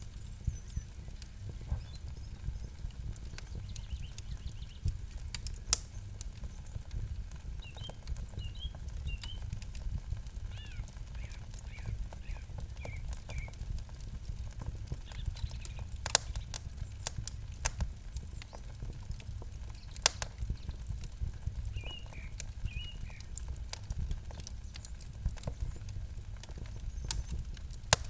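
Campfire crackling, with irregular sharp pops over a low steady rumble. A few pops stand out louder than the rest. A small bird chirps in short runs twice.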